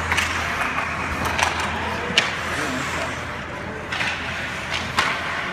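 Live game sounds in an arena: a handful of sharp knocks from play, scattered a second or so apart, over a steady murmur of spectators.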